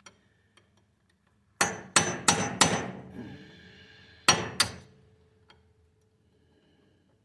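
Hammer striking a steel punch to drive a snapped roll pin out of a tractor's front drive shaft U-joint: four quick blows, then two more a couple of seconds later, each leaving a short metallic ring.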